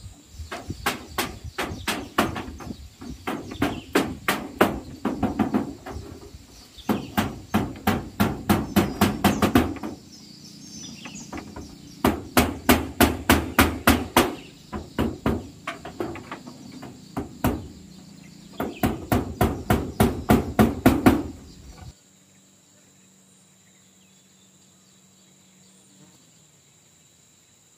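A hammer driving nails in runs of quick blows, about four a second, with short pauses between runs. The blows stop about three-quarters of the way through.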